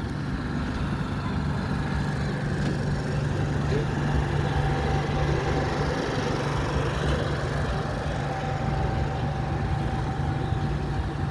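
A steady low engine hum, with a faint high steady tone joining about halfway through.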